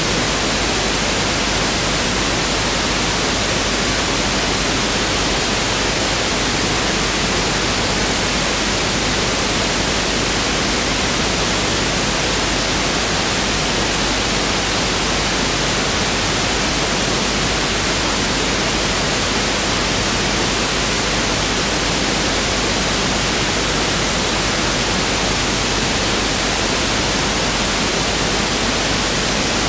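Pink noise (1/f) test signal: a steady, even hiss spread across all pitches, unchanging throughout.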